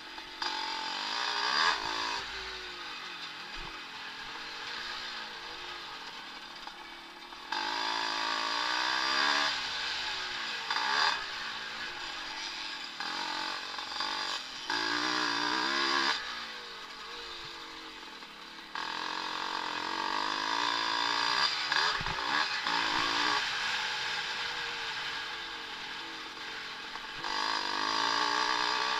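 Vintage motocross motorcycles racing, engines revving up and down through gear changes and throttle. The sound grows suddenly louder at about 7 seconds, 19 seconds and 27 seconds in, as bikes come near.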